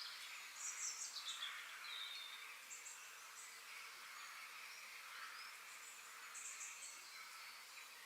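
Birds chirping in short high clusters, about three times, the loudest about a second in with a falling note, over a steady faint background hiss of outdoor nature ambience.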